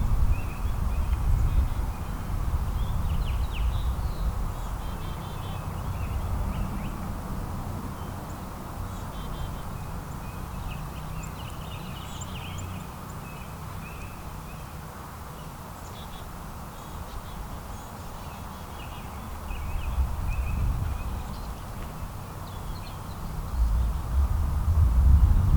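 Small songbirds chirping in short, scattered calls, over a low rumble that swells near the start and again near the end.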